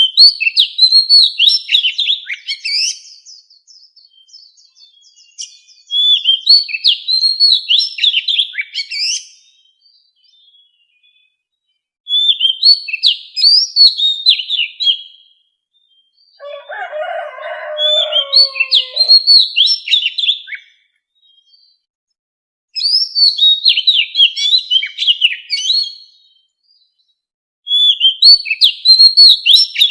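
Oriental magpie-robin singing: repeated phrases of rapid, varied whistled notes, each about three seconds long with pauses of a few seconds between. Around the middle, a lower-pitched call sounds under one phrase.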